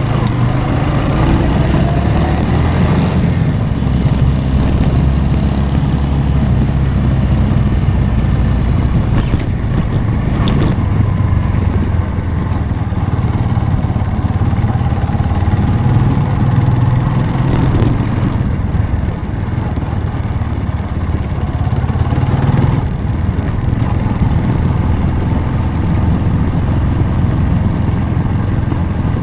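Motorcycle engine running steadily under way, its pitch rising and falling a little as the speed changes, with a couple of brief sharp clicks partway through.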